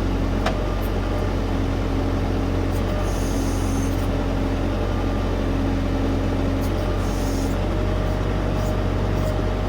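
Tractor diesel engine running steadily with a constant low drone. Two brief high hisses come through, about three seconds in and again near seven seconds.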